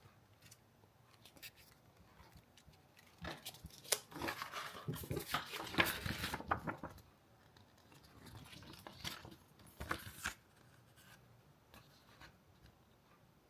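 Close handling noise: a dense run of clicks, snips and rustling for a few seconds, then a shorter burst a little later.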